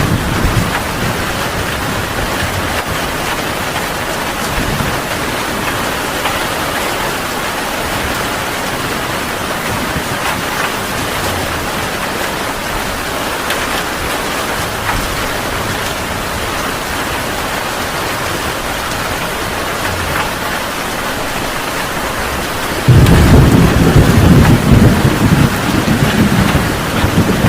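Heavy rain falling steadily. About 23 seconds in, a loud, low rumble of thunder breaks in and rolls on through the last few seconds.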